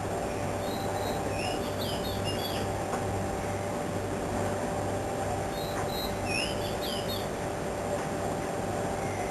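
Spiderhunter birds calling: two quick clusters of short, high, sharply curved chirps about four seconds apart. Under them runs a steady mechanical hum with a low, slowly pulsing throb.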